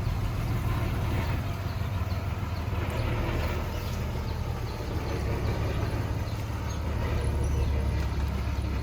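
Heavy machinery diesel engine running steadily with a low rumble, from a bulldozer or dump truck working on a land-fill job.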